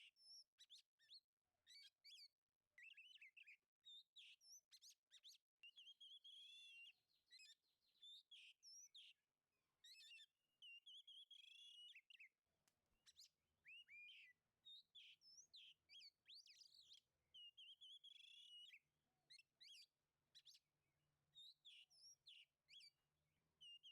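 Faint oriental magpie-robin song: a rapid string of varied whistles, chirps and warbled phrases with brief gaps. It is the full-voiced challenge song that calls out a rival male.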